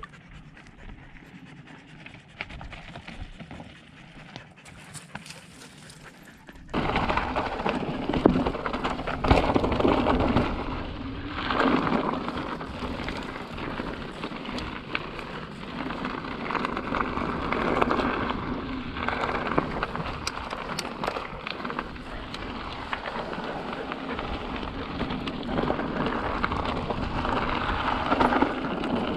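Riding noise of a mountain bike rolling over slickrock: wind buffeting the helmet camera's microphone and tyre rumble, quieter at first, then much louder from about seven seconds in, surging up and down.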